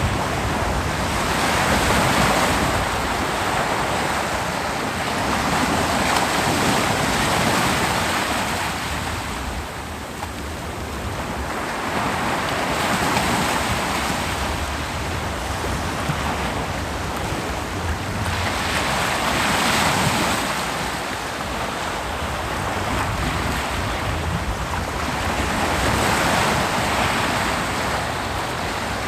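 Ocean surf breaking and washing up a beach: a continuous rush of water that swells with each wave about every six seconds, five waves in all.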